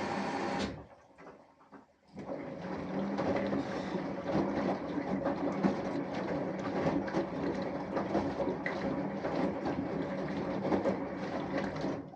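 Samsung Eco Bubble washing machine washing: a steady hum cuts off just under a second in, and after a short pause the drum turns for about ten seconds, with laundry and water sloshing and many small knocks and clicks, then stops near the end.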